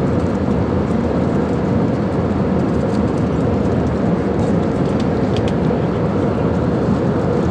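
Steady airliner cabin noise in flight: an even, low rush of engines and airflow, with a few faint small clicks near the middle.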